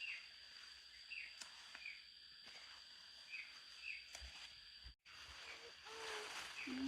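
Quiet outdoor ambience: a small bird repeats a short falling chirp about once a second over a steady high insect whine. The sound drops out for an instant about five seconds in, and a faint voice follows near the end.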